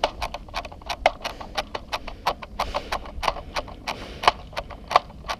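A run of sharp, irregular clicks and knocks, several a second.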